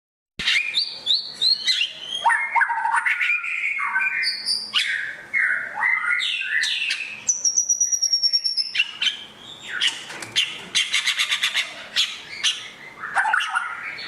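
A songbird singing a long, varied song of whistled phrases and quick trills, starting abruptly about half a second in. Midway there is a high, even trill, and near the end a fast run of rapidly repeated notes.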